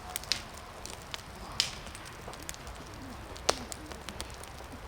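Wood fire in a fire pit crackling, with irregular sharp pops and snaps, two louder pops about one and a half and three and a half seconds in.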